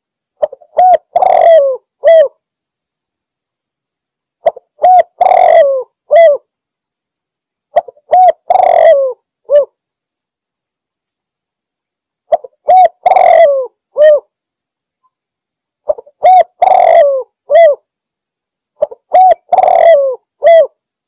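Spotted dove (tekukur) cooing: six repeated calls about every three and a half seconds. Each call is a couple of short coos, a longer, louder coo, then a short closing coo.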